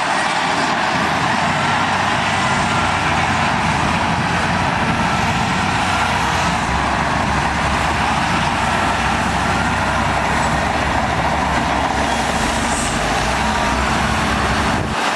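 Heavy earthmoving machinery running steadily, a continuous diesel engine noise without breaks.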